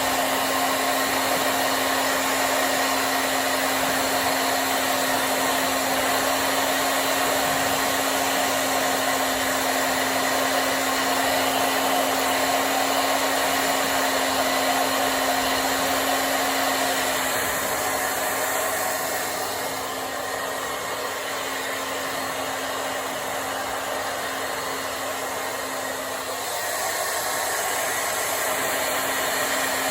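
Hair dryer running, a continuous blowing hiss with a steady hum. A little past halfway the hum drops out and the dryer sounds somewhat quieter for about ten seconds, then comes back as before.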